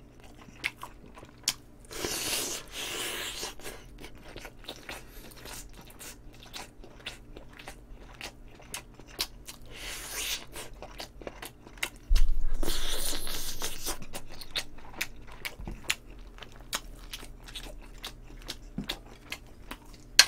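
Close-miked chewing and biting of braised chicken pieces eaten by hand: a steady run of wet mouth clicks and smacks. Three longer noisy rushes break in, the loudest about twelve seconds in, starting with a low bump and fading over two seconds.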